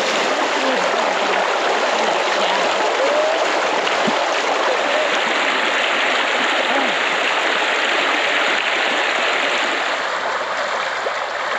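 Fast-flowing river water running steadily, a strong current, growing slightly quieter near the end.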